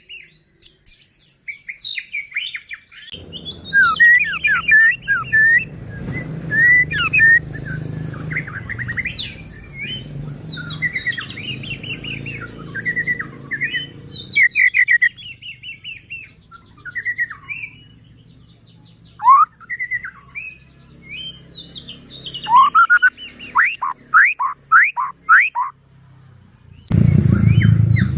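White-rumped shama (murai batu) singing a long, varied song of loud whistled phrases, quick trills and chattering notes. A run of fast sweeping whistles comes about three-quarters of the way through.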